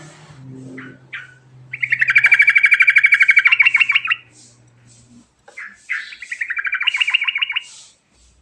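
Yellow-vented bulbul (trucukan) singing: a few short calls, then two long rolling trills of fast repeated notes, the first about two seconds in and the second about six seconds in.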